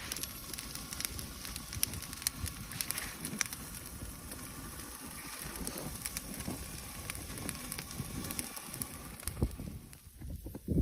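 Bonfire crackling, with frequent sharp pops.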